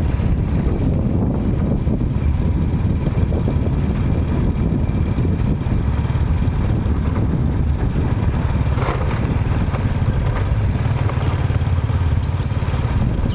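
Steady, loud low rumble of outdoor background noise, with a few short, high bird chirps near the end.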